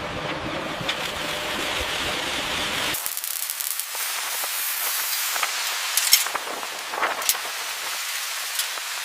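Steady spraying hiss. About three seconds in, the low rumble drops away, leaving a thinner, higher hiss with scattered sharp clicks.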